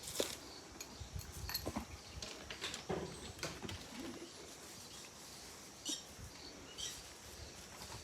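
Scattered short, high bird chirps over faint outdoor background, with a few soft clicks and low thumps.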